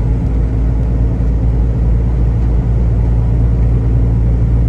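Semi truck's diesel engine and road noise heard from inside the cab while driving: a steady low drone with an even engine hum.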